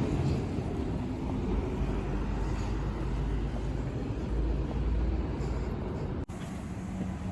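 Steady low rumble of road traffic noise, cut off briefly about six seconds in.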